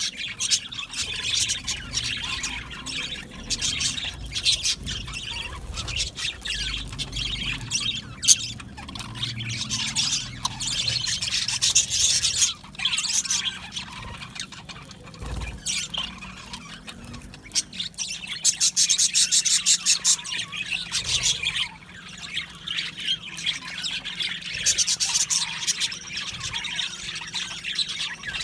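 A flock of budgerigars chattering, chirping and squawking together, with several louder stretches of rapid chatter.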